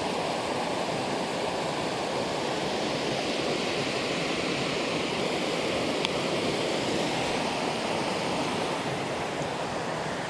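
Steady rush of creek water spilling over a small waterfall, with a single short click about six seconds in.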